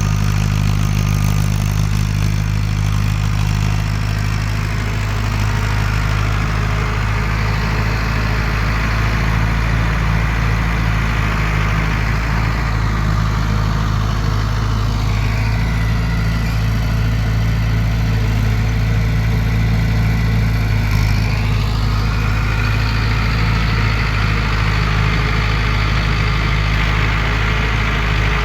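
Mahindra Arjun 605 tractor's diesel engine running steadily under load. In the middle stretch, a fainter higher whine dips and rises for several seconds.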